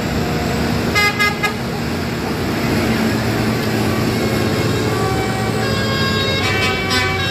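Tractor engines running steadily as a parade of tractors passes. A horn gives a short double toot about a second in and sounds again, longer, near the end.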